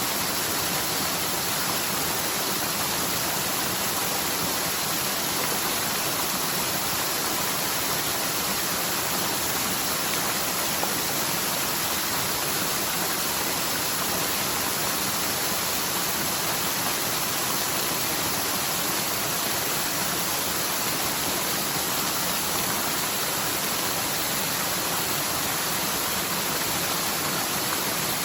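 A mountain stream in spate after a typhoon's heavy rain, its water rushing and tumbling steadily down the slope.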